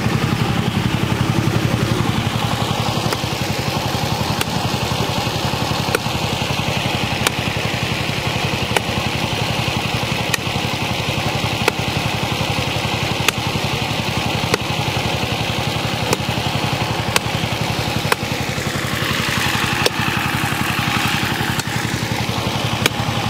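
Generator engine running steadily at close range, with a faint sharp tick about every second and a half.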